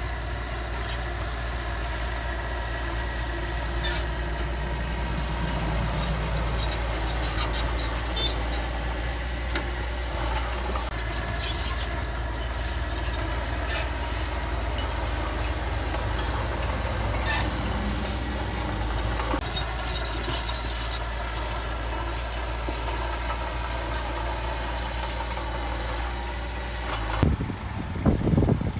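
Heavy earthmoving machine's diesel engine running steadily, with short high-pitched squeals about 8, 12 and 21 seconds in. Near the end the steady running gives way abruptly to louder irregular knocking.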